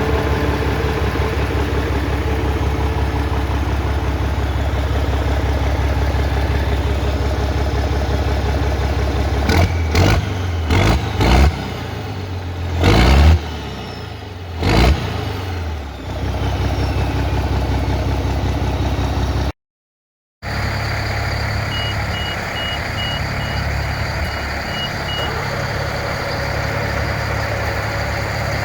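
A vehicle engine running steadily, with several loud knocks or surges in the middle. After a brief cut, the engine runs on while a reversing alarm beeps about eight times.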